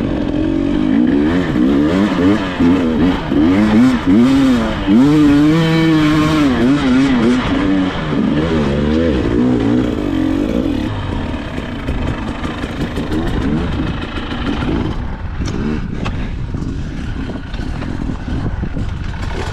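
Dirt bike engine revving hard, its pitch swinging up and down again and again for about ten seconds, then running lower and rougher.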